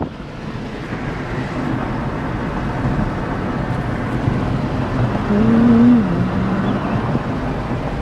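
Steady road and wind noise inside a moving car. About five seconds in comes a loud, low, wavering call lasting nearly two seconds, which the people in the car take for a weird bird.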